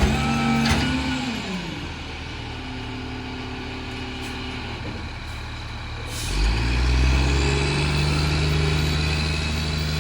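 Freightliner garbage truck's diesel engine: its revs fall back in the first two seconds and it runs low for a while. About six seconds in there is a short air hiss, and the engine pulls louder and holds steady.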